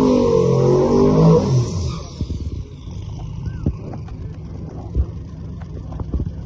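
A high-powered drag car's engine running hard at high revs, its pitch bending, then falling away about two seconds in. A lower rumble follows, with a single thump a few seconds later.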